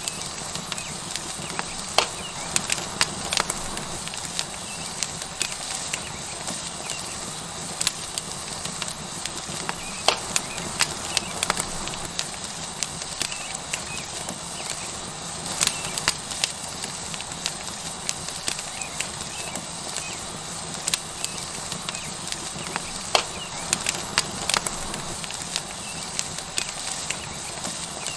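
Wood fire crackling with frequent, irregular sharp pops over a steady sizzling hiss from a tomahawk steak searing on a hot rock.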